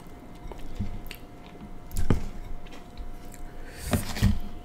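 Close-up biting and chewing of king crab leg meat pulled from the shell, with a few sharp clicks of shell, the loudest about two seconds in.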